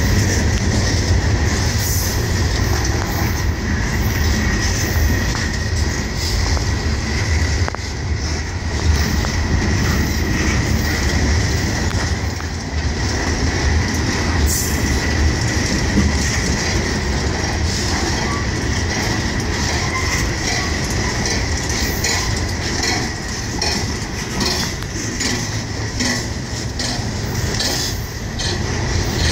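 Freight cars rolling past at close range: a steady rumble of steel wheels on the rail with irregular clicks over joints, and a thin, steady high-pitched squeal running throughout.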